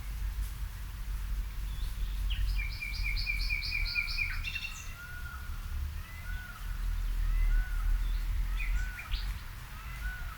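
Wild birds singing: one bird gives a quick run of about eight repeated high notes, then a softer short call repeats about once a second. A low rumble runs underneath and is the loudest part.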